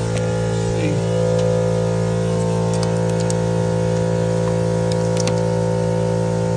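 Steady hum made of several fixed tones, unchanging throughout, with a few faint light clicks and taps over it.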